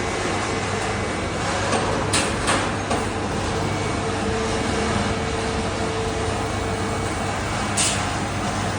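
Haas VM-3 CNC machining center running its spindle warm-up cycle: a steady machine hum with a held tone from the turning spindle. A few short hisses come about two seconds in and again near the end.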